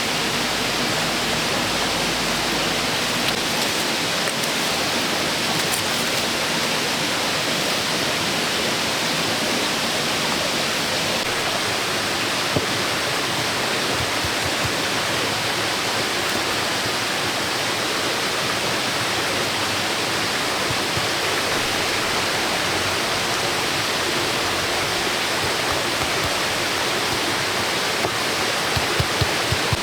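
Steady rushing noise of flowing water, even and unbroken, with a few faint knocks near the end.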